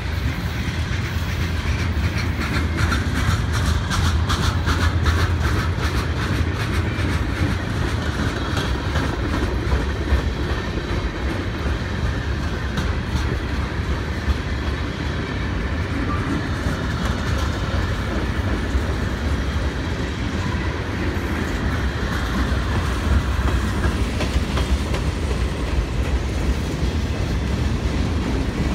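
Norfolk Southern freight train cars rolling past: a steady, loud rumble, with the wheels clicking rapidly over rail joints, thickest in the first several seconds.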